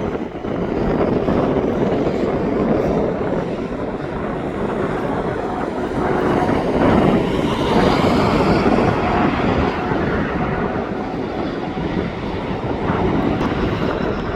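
Jet airliner engines as the plane passes, swelling to their loudest about seven to nine seconds in, then easing, with some wind on the microphone.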